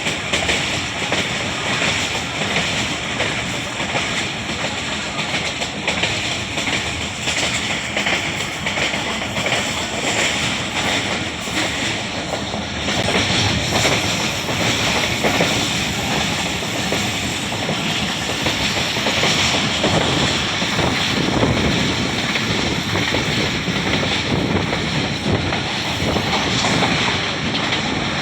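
Passenger train running along the track, heard from on board: steady wheel-and-rail and carriage noise.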